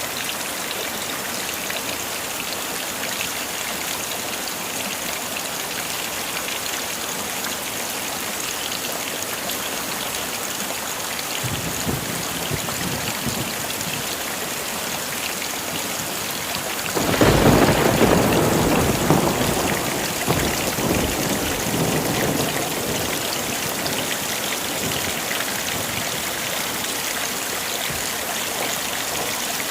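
Steady heavy rain with a rolling thunderclap breaking in sharply a little past halfway and rumbling away over several seconds, after a fainter low rumble a few seconds earlier.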